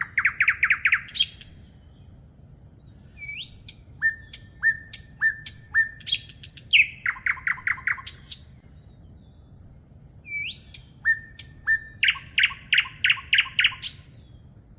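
A songbird singing the same song over and over. Each song is a few short, clear notes followed by a fast, even run of about eight notes, ending on a quick high upswept note; it is heard about twice in full, with the end of another at the start.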